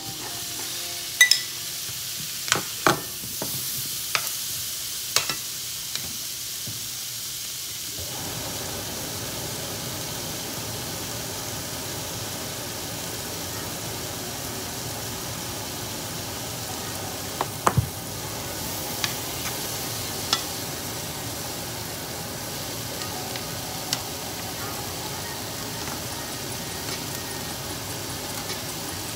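Sliced onions and garlic sizzling in oil in a hot frying pan, a steady frying hiss, with a second pan of beef frying beside it. Sharp metal clinks of a spoon and tongs against the pans come several times in the first five seconds and a few more past the middle.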